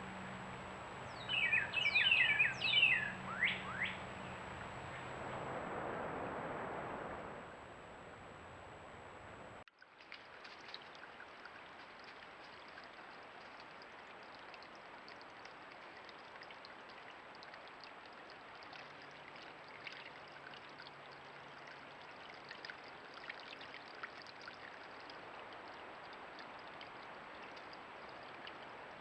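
A bird calls in a quick run of sharply sweeping notes for a few seconds. After a cut, steady flowing creek water fills the rest.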